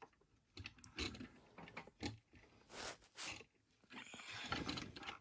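Faint scattered clicks and light rustling of plastic toy parts being handled, with a longer rustle about four seconds in.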